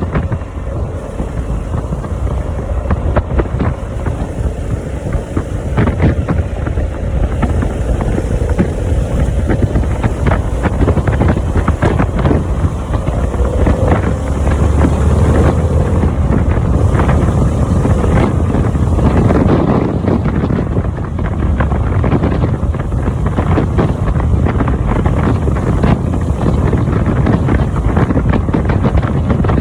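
Harley-Davidson motorcycle engine running steadily at road speed, with heavy wind buffeting on the microphone.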